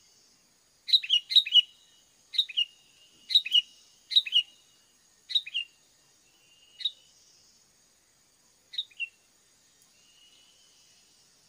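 Sharp bird calls, mostly in quick pairs, each a short note dropping slightly in pitch, about a dozen spaced over several seconds and thinning out toward the end, over a faint steady high-pitched insect drone.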